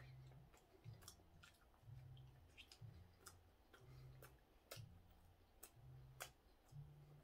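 Faint close-up eating sounds of a man chewing a steamed bun: irregular wet mouth clicks and smacks, with a low sound that comes and goes about once a second as he chews.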